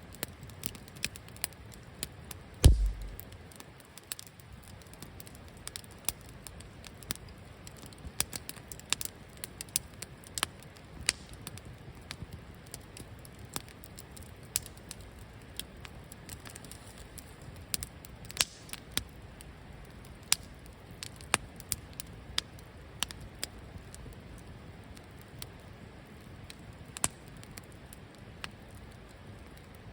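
Wood fire in a campfire pit crackling, with irregular sharp pops and snaps over a soft steady hiss. A single dull, heavy thump about three seconds in is the loudest sound.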